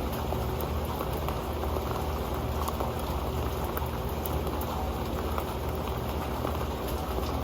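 Rain falling onto an old metal pan: a steady patter of many small drops tapping the pan over a constant rain hiss.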